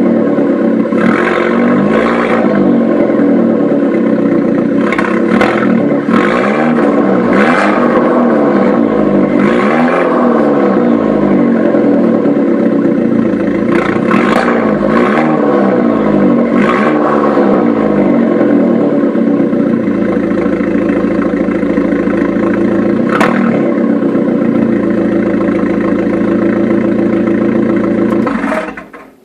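Fiat 500 Abarth's 1.4 turbo four-cylinder, breathing through a Record Monza exhaust with its valve open, is blipped again and again while stationary. Each rev rises and falls with a short sharp burst at the top. It then settles to a steady idle and is switched off near the end.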